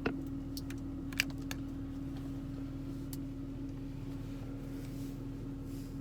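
Steady low hum of an idling vehicle, with a few light clicks in the first seconds.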